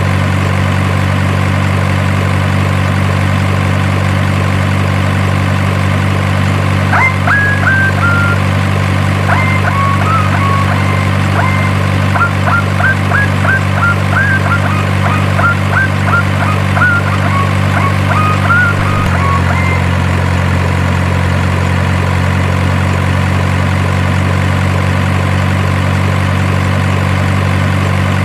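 Steady simulated engine idle from an RC model truck's sound unit, a low even drone that shifts down slightly about two-thirds of the way through. A run of short high chirps plays over it for about twelve seconds in the middle.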